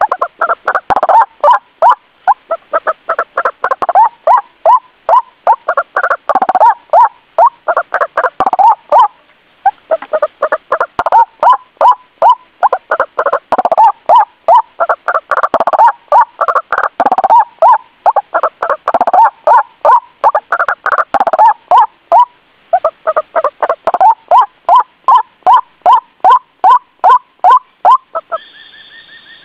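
White-breasted waterhen (ruak-ruak) calling: loud, rapidly repeated notes, about three or four a second, in long runs with short breaks, the recorded call used as a lure to draw the birds in.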